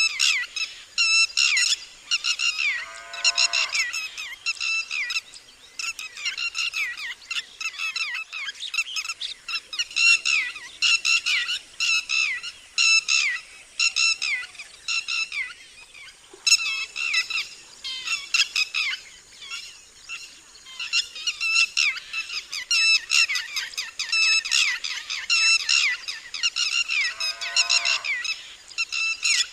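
Red-wattled lapwing calling: loud, sharp, piercing notes repeated in quick series of several a second, broken by short pauses. Twice a lower call glides downward.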